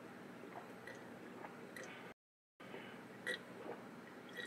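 Faint chewing with small wet mouth clicks from someone eating a seafood boil close to the microphone, broken by about half a second of total silence roughly two seconds in.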